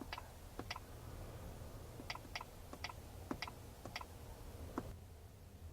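Key presses on a truck's in-cab logging terminal: about a dozen short, sharp clicks at uneven intervals, several in quick pairs, as a driver logs in. A faint low hum runs underneath.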